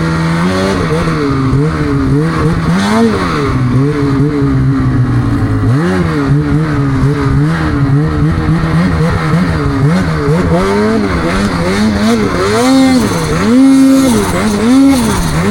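Snowmobile engine revving up and down again and again as the rider works the throttle, with quick rises and drops in pitch about once a second near the end.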